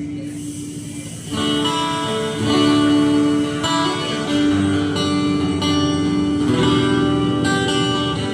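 Acoustic guitar playing an instrumental passage with no singing. One chord rings out and fades, then a little over a second in the guitar picks up again with a run of fresh chords.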